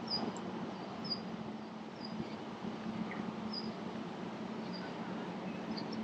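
Small birds chirping: short, high chirps about once a second over a steady outdoor hiss.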